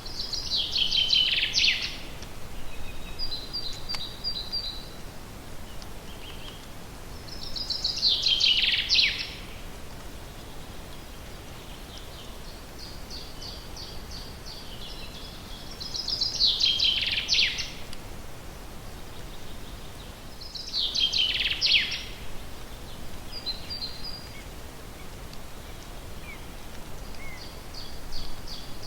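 A songbird repeating the same short song every several seconds, about five times: each is a run of high notes that speeds up and drops in pitch at the end. Quieter chirps come in between, over a steady background hiss.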